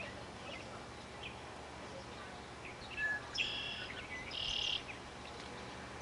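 Two short, high, buzzy bird calls about a second apart, just after a brief chirp about halfway through, over faint outdoor background noise.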